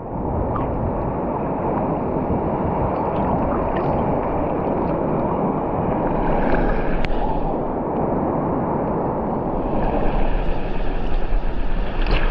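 Sea waves washing in a steady rush, swelling slightly a couple of times.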